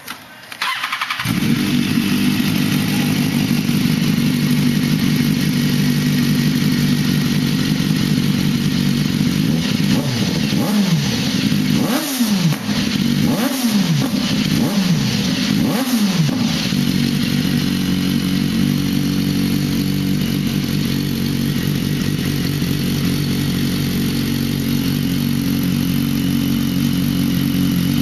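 BMW S1000RR inline-four motorcycle engine, running through a decat pipe and the stock end can, starts about a second in and settles to a steady idle. Between about ten and sixteen seconds in it is blipped five times, each rev rising and dropping quickly back to idle, then it idles on.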